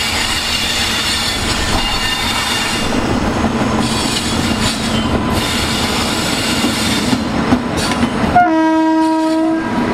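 Indian Railways WAP-7 electric locomotive and its passenger coaches passing close by, with steady wheel-on-rail running noise. About eight seconds in, a train horn sounds once for a little over a second.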